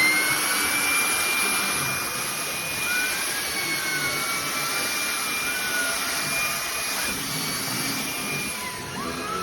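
Fieety cordless stick vacuum cleaner running: a steady rush of air under a high motor whine whose pitch wavers up and down as it is worked. Near the end the whine briefly drops, then climbs again.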